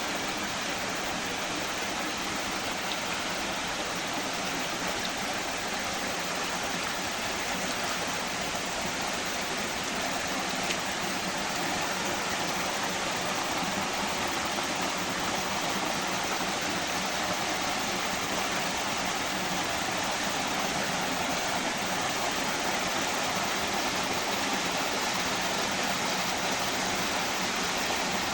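Forest stream flowing steadily, a continuous rush of running water.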